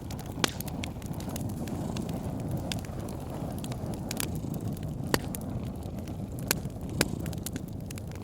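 Wood fire crackling with scattered sharp pops, the loudest about five seconds in, over a steady low rumble of a cat purring.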